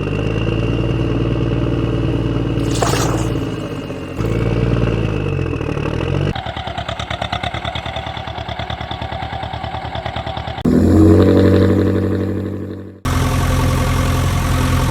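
A string of vehicle engine sounds that change suddenly from one to the next. First a steady engine hum, then a fast rhythmic chugging from about six seconds in, then a loud engine note that dies away, then another steady engine.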